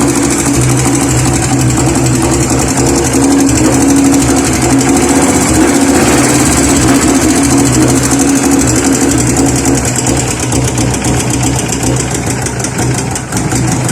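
Honda GX390 single-cylinder four-stroke engine of about 13 hp running steadily with a fast, even beat, easing slightly near the end.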